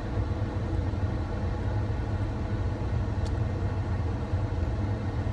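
Steady low rumble of a car idling, heard inside the cabin, with one faint click about three seconds in.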